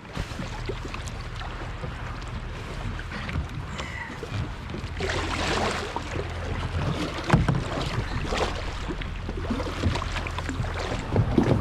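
Small boat underway on the water: a steady low motor hum under wind and water noise, with occasional knocks and splashes.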